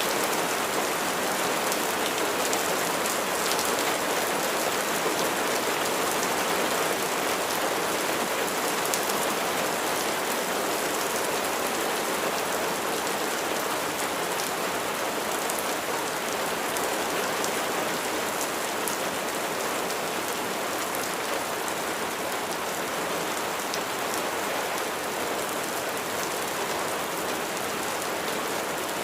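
Steady rain falling, a continuous hiss with many fine drop ticks, easing very slightly over the stretch.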